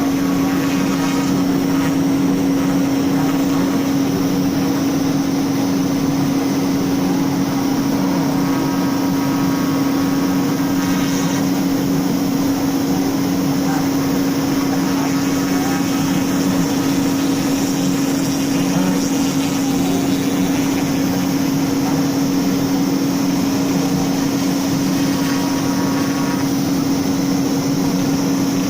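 CNC router spindle running steadily at a constant high pitch while it cuts wood.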